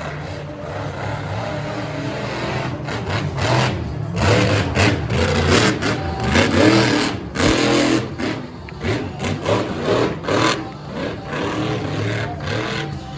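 Monster truck engine revving hard, its pitch rising and falling, with a few sharp cracks in the middle.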